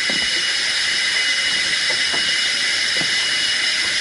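Steady, shrill chorus of rainforest insects: several high steady tones over a continuous hiss, with a few faint low knocks.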